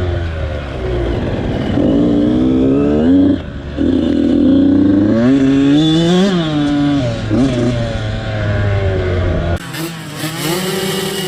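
Motocross dirt bike engines revving hard, the pitch climbing and dropping repeatedly as the riders work through the gears and throttle. The sound changes abruptly near the end to a different, steadier engine note.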